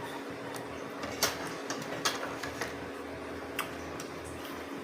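A few scattered sharp clicks of a spoon and fork against a plate while eating, over a steady low hum.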